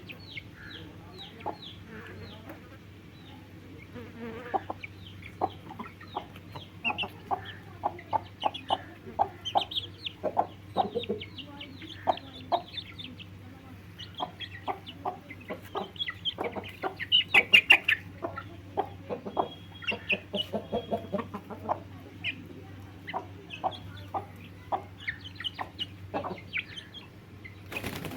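Aseel chicks peeping over and over, many short calls falling in pitch, busiest a little past the middle. A steady low hum runs underneath.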